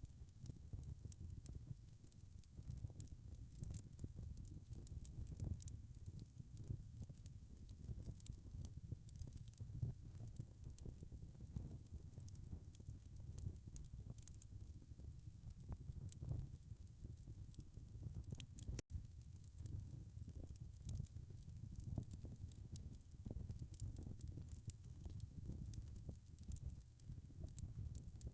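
Wood fire crackling in a fireplace: steady pops and snaps over a low rumble of burning. The sound drops out for an instant about two-thirds of the way through.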